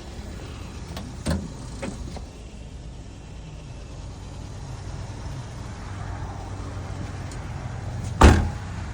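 Kia Spectra's four-cylinder engine idling steadily after a cold start, with a couple of light knocks early on and one loud thump near the end.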